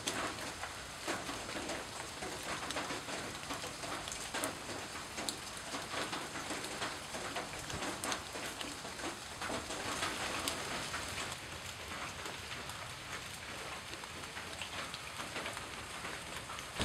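Steady rain falling and pattering on surfaces, with many small drop impacts.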